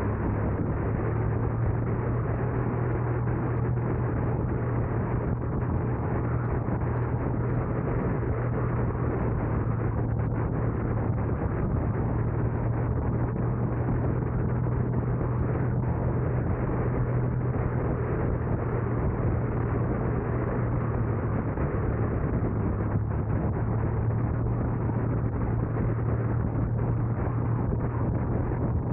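A car driving along, with steady road and engine noise under a constant low hum.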